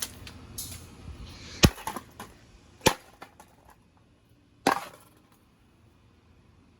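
Three sharp knocks and cracks from a ceiling fan being broken apart, with lighter clicks between them; the last knock rings on briefly.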